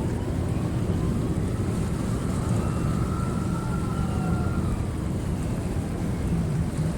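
Incoming high-tide waves and wind buffeting the microphone, a steady low rumble. A faint tone rises and falls in the middle.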